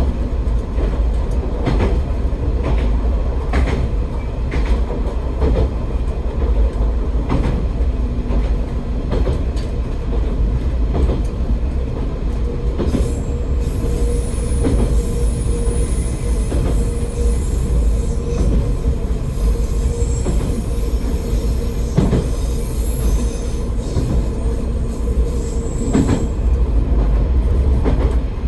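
AN-8800 diesel railcar running along the line: a steady low rumble with the wheels clicking over rail joints every second or two. From about halfway through, a high wheel squeal comes and goes above it.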